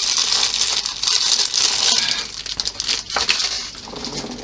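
Plastic packets of small tattoo ink cups being handled, crinkling, loudest in the first two seconds and then quieter, with a single click about three seconds in.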